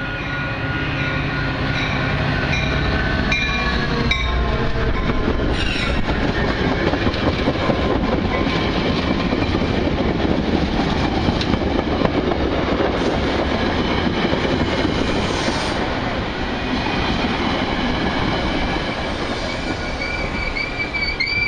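Metra commuter train pulling into the station, its locomotive and bilevel passenger cars rolling past close by with a loud steady rumble of wheels on the rails. Some high tones sound in the first few seconds, and a high wheel or brake squeal comes in near the end as the train slows for its stop.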